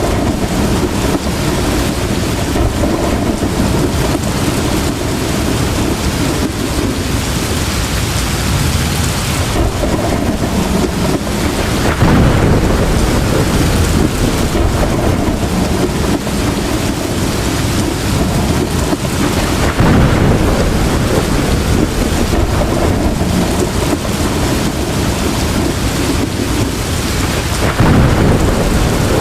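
Heavy rain pouring steadily, with thunder rumbling in three times, each rumble swelling up and dying away over several seconds.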